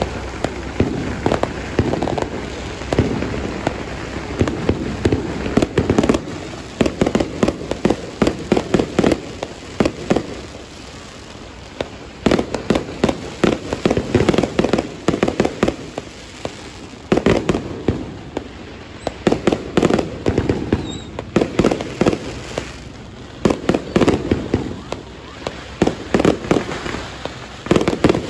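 Aerial fireworks going off overhead: dense, rapid crackling pops and bangs in clusters, easing into a short lull about ten seconds in and again a little past twenty seconds.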